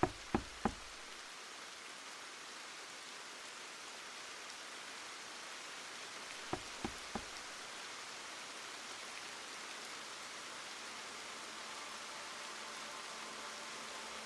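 A steady, even hiss like rain, with two quick runs of three sharp clicks: one at the very start and one about six and a half seconds in.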